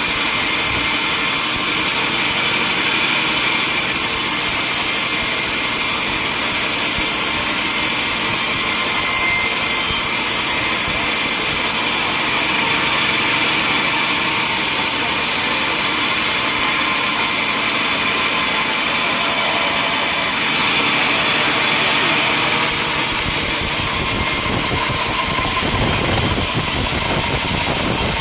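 Sawmill machinery running steadily with a saw cutting wood, a dense, even mechanical noise with a high hiss. A deeper rumble joins about three-quarters of the way through.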